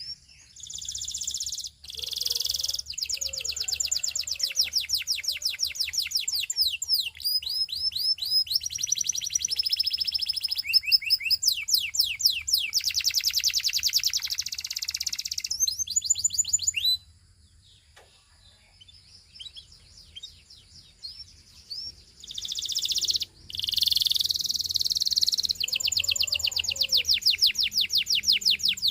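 Belgian singing canary singing in two long bouts of fast trills, rolls and quick repeated sweeping notes. There is a pause of about five seconds between the bouts.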